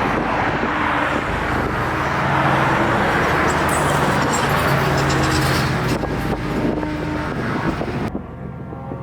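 Subaru WRX driving: its engine runs at a steady pitch under a loud rushing noise of wind and tyres. About eight seconds in, the sound drops suddenly to a quieter engine hum.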